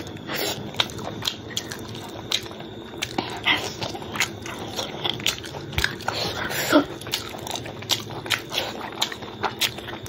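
Close-up mouth sounds of eating pork curry and rice by hand: wet chewing, lip smacks and finger sucking in many short, irregular clicks.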